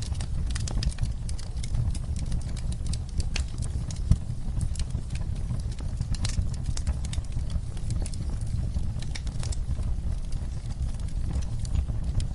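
Wood fire crackling in a fireplace: a steady low rumble of flames under frequent sharp crackles and pops, with one louder pop about four seconds in.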